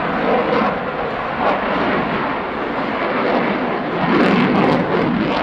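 Jet noise from a Lockheed Martin F-22A Raptor's two Pratt & Whitney F119 turbofan engines during a display pass: loud and steady, with a crackling stretch about four seconds in.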